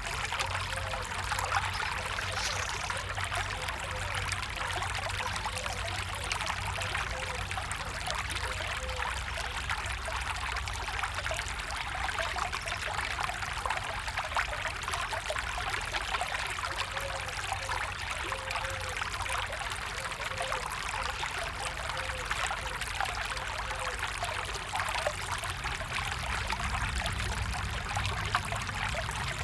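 A stream of water flowing over stones, a steady rushing and trickling.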